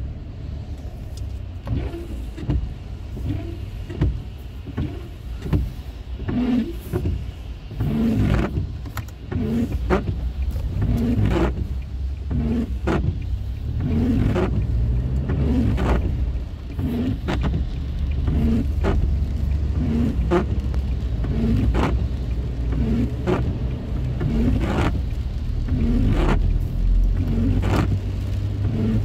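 A car's windshield wipers sweeping in rain, a short stroke about once every second and a half, over the steady low rumble of the car driving.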